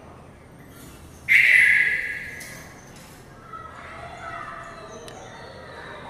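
Red-vented bulbul giving one loud, harsh call about a second in, followed by fainter, scattered calls.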